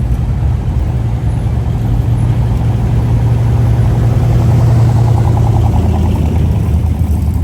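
A car engine running with a steady, deep rumble that swells a little partway through and eases again near the end.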